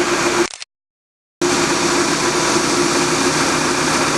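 Diesel engine of a tractor-mounted auger pile-driving rig running steadily with a steady hum. The sound cuts out completely for about a second, then resumes.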